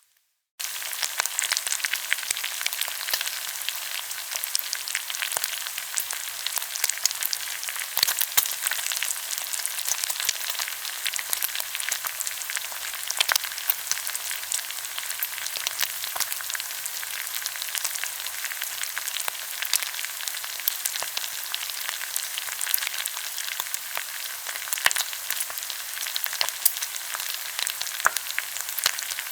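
Pork belly sizzling on a hot grill, a dense steady crackle full of sharp pops of spitting fat. It starts abruptly about half a second in.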